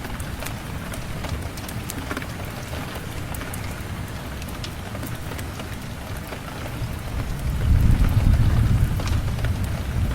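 Steady rain with scattered sharp crackles, and a low rumble of thunder that swells about seven seconds in and eases off near the end.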